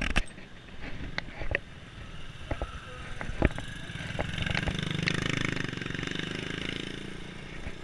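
Motorcycle engine passing close by, swelling about four seconds in and easing off near the end, with scattered clicks and knocks earlier from the bicycle riding over the road.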